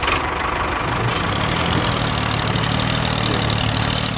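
Tractor diesel engine running steadily, a low even hum under a broad hiss.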